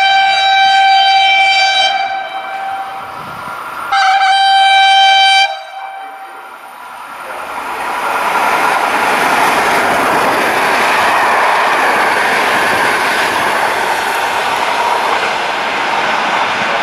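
E464 electric locomotive's horn sounding a long blast and then a second shorter one, followed by the Intercity train rolling past with steady wheel-on-rail noise.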